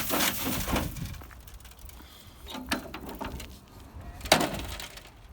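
Scraping and knocking of rubble and construction debris being shifted by hand, with a sharp knock about four seconds in.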